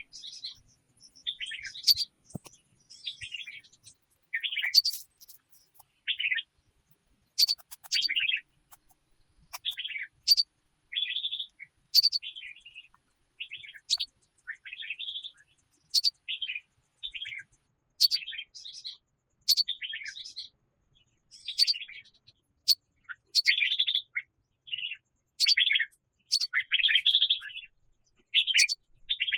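Songbird singing, repeating a short phrase about every two seconds: a sharp high note followed by a lower warbling run of notes, with quiet gaps between phrases.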